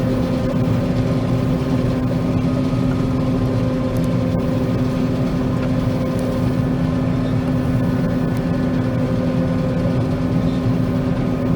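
John Deere 9500 combine running steadily while harvesting soybeans: a constant machine drone with a steady hum over a low rumble.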